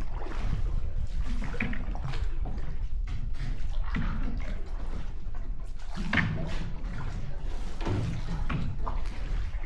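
Water sloshing and splashing in uneven gushes, over a steady low rumble.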